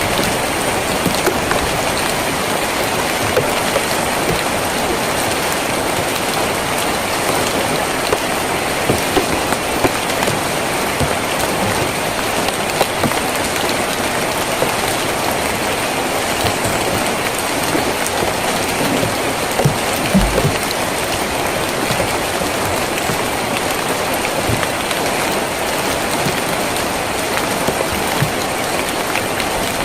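Steady heavy rain drumming on a tin roof, with many separate drops ticking sharply through the hiss and one brief low thud about two-thirds of the way in.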